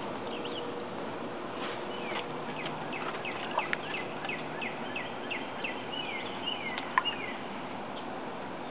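A songbird singing a long run of quick, clear falling notes, about three a second, over steady outdoor background noise, with two sharp clicks along the way.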